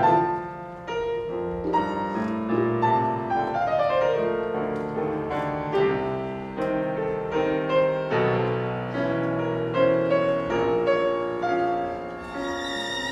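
Solo piano playing a passage of quick notes and chords, with a run of notes descending about four seconds in.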